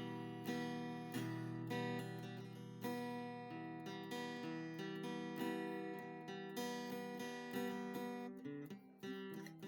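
Background music: acoustic guitar playing a gentle strummed and picked chord progression.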